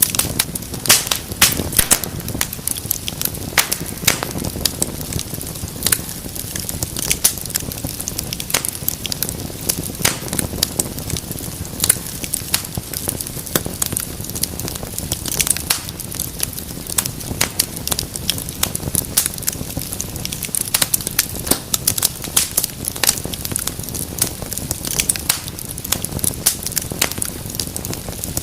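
Wood fire burning in a fireplace, crackling and popping irregularly over a steady low rumble of flames.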